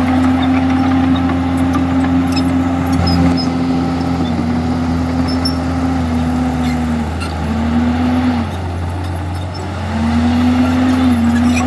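Komatsu D51EX bulldozer's diesel engine running under load with a steady, loud note. The pitch sags twice, briefly about two-thirds of the way in and then for a second or two, where it also goes quieter before picking back up.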